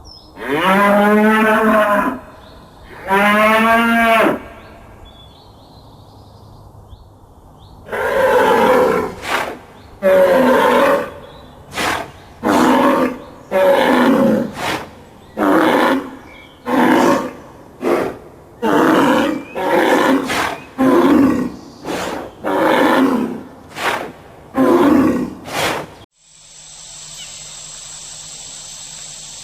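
A large animal calling loudly: two long calls that rise and fall in pitch, then after a pause a long run of shorter calls at about one a second, which stop abruptly about four seconds before the end.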